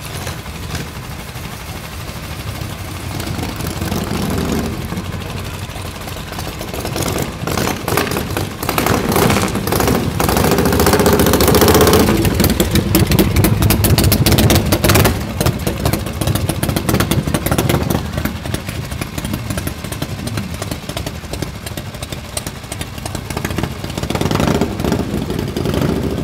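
Engine of a vehicle driving past, growing louder to a peak around the middle with a rapid, pulsing exhaust note, then fading, with another engine rising near the end.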